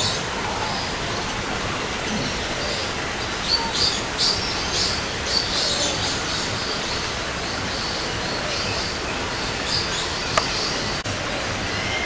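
Small birds chirping in short, high, repeated notes over a steady background hiss; the chirping comes in clusters from a few seconds in until near the end. A single brief click sounds near the end.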